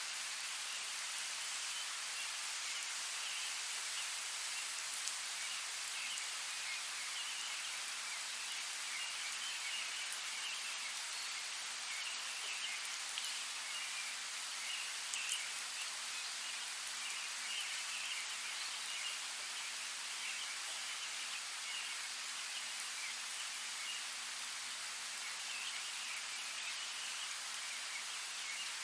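Steady rain falling in a forest, an even hiss with scattered individual drops ticking, a few slightly louder drops partway through.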